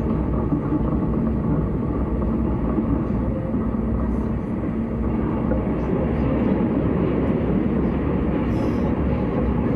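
S-Bahn electric train running between stations: a steady rumble of wheels on rail and running gear.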